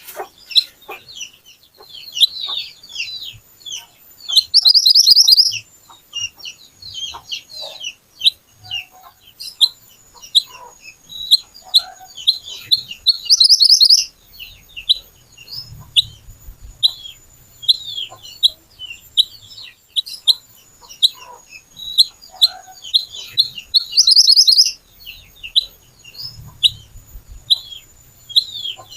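Mantenan (kuniran) songbird calling constantly in short, sharp, high chirps, breaking into a loud, rapid trill about every nine to ten seconds: the busy, piercing song used as a lure recording.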